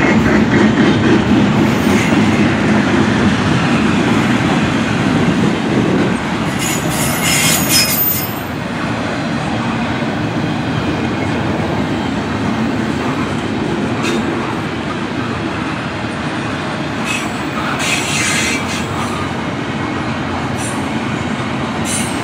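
Two Union Pacific diesel-electric helper locomotives pass with their engines running for the first several seconds. Then double-stack intermodal well cars roll by with steady wheel and rail noise. Brief high wheel squeals come about seven seconds in and again near eighteen seconds.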